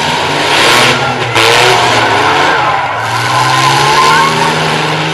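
Demolition derby trucks' engines revving, their pitch rising and falling as they accelerate around the arena. Bursts of rushing noise come in about half a second in and again around a second and a half in.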